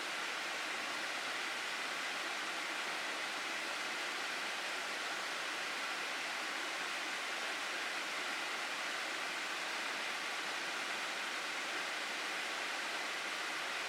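Rushing water of a mountain stream in a gorge, a steady unbroken hiss.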